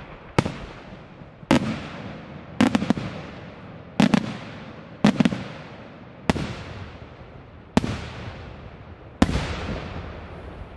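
Aerial firework shells bursting: about ten sharp bangs roughly a second apart, some in quick pairs, each followed by a long echo that fades away.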